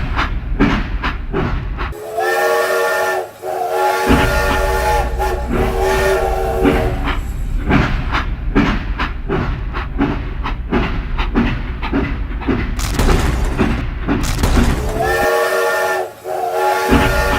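A whistle-like horn with several tones sounds twice, each time for about two seconds, over fast, continuous clattering knocks.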